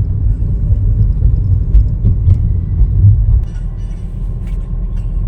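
Steady low rumble of a road vehicle on the move, heard from on board, easing slightly a little past the middle.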